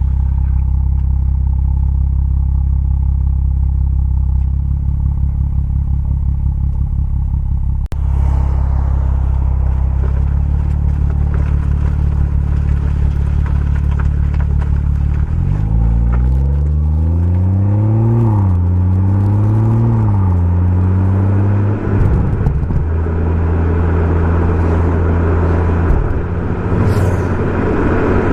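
BMW M140i's turbocharged straight-six running through a Remus aftermarket exhaust, holding steady revs for the first half. About halfway it accelerates, the pitch climbing, drops back twice at upshifts, then settles to steady running.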